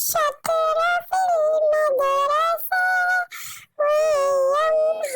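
A high-pitched, pitch-shifted cartoon voice making a run of sing-song wordless syllables, some held for about a second.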